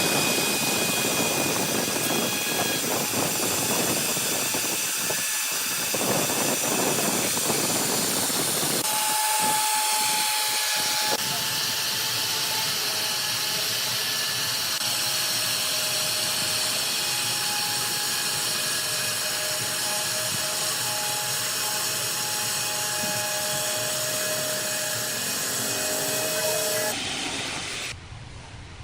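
Workshop power machinery running: a steady loud hiss with several steady whining tones over it, changing abruptly a few times.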